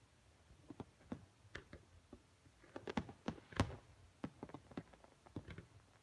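Fireworks bursting at a distance: faint, irregular pops and bangs, a dozen or more, the loudest about three and a half seconds in.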